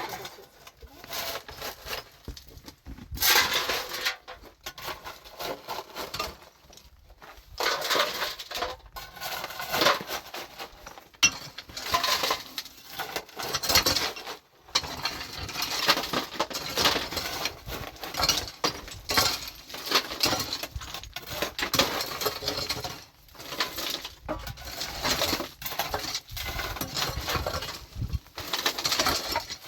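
Hard objects clattering and knocking irregularly, with many sharp knocks close together and a few brief lulls.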